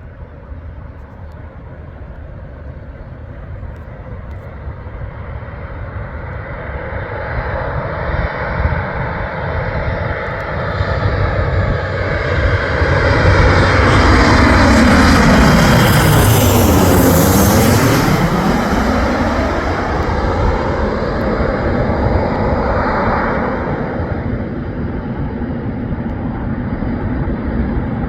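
An aircraft passing close by. Its engine noise builds for about a dozen seconds, peaks with a sweeping, phasing tone as the plane goes by, then slowly fades.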